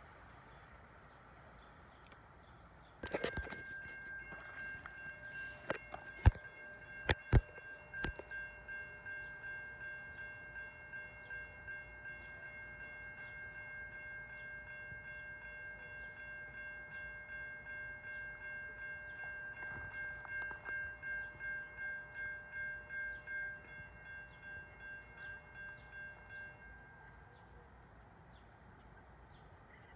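Railroad grade crossing warning bell starts ringing about three seconds in, a steady rapid pulsing ding, and stops near the end. A few sharp knocks sound in the first several seconds after it starts.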